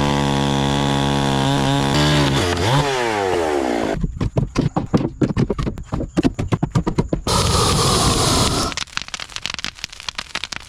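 71cc NEO-TEC NH872 gas chainsaw running at high revs, its pitch dropping and rising again as it works. It is followed by a long run of sharp, irregular cracks and snaps.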